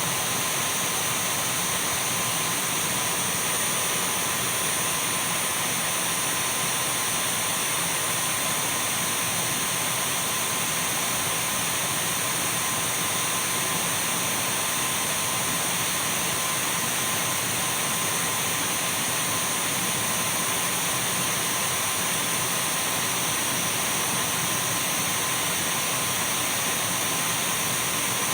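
Dyson V12 cordless stick vacuum running steadily: an even rushing hiss with a thin high whine and a fainter mid-pitched hum, unchanging throughout.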